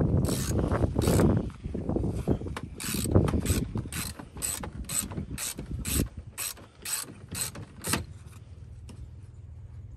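Hand ratchet wrench working a bolt loose: after a second or so of heavier rattling, a regular run of sharp clicks about twice a second, stopping about 8 seconds in.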